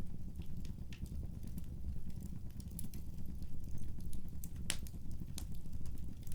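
Wood fire crackling: scattered small pops over a low steady rumble, with one sharper pop about three-quarters of the way through.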